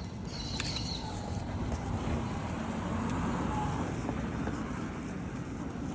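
A car passing along the street, its road noise swelling to a peak around the middle and fading again.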